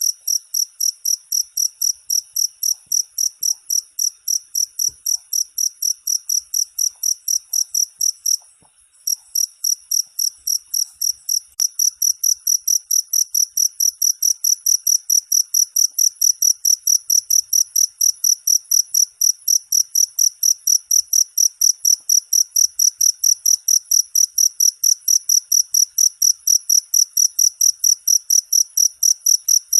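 Cricket chirping in a steady, even rhythm of about four high-pitched chirps a second, with one brief break about eight seconds in.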